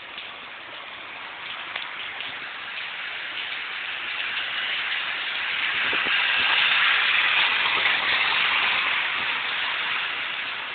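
Heavy storm rain pouring down, swelling to its heaviest about halfway through and easing again near the end, with scattered drop ticks.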